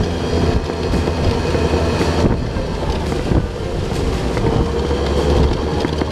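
Steady rumble and hum of a moving vehicle.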